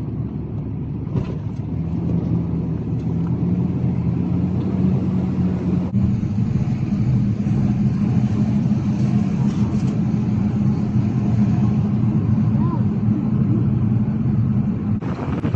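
A car driving: a steady low engine drone over road noise, its pitch stepping up slightly about six seconds in.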